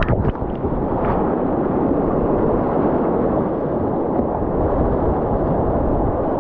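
Creek whitewater rushing steadily, with a few short splashes in the first second.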